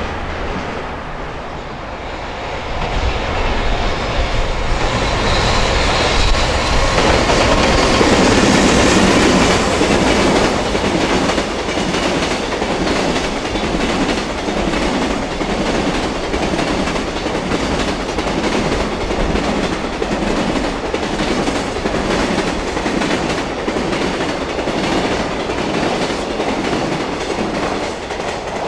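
A container freight train hauled by an EH500 electric locomotive passing at speed. The sound swells to its loudest about seven to ten seconds in, then settles into a long, steady clatter of flatcar wheels over the rail joints.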